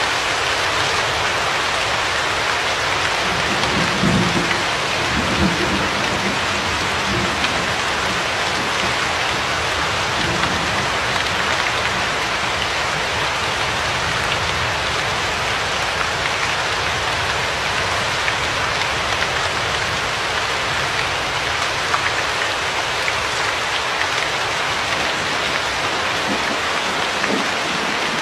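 Steady rain, an even hiss. Low rumbles of thunder swell about four to six seconds in and again right at the end.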